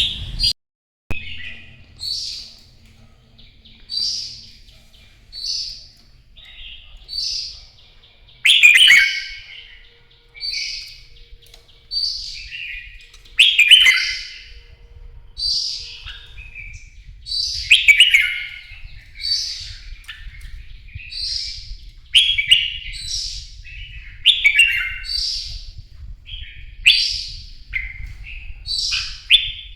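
Red-whiskered bulbul singing its loud fighting song: short, bright whistled phrases repeated about once a second, with a brief break just after the start.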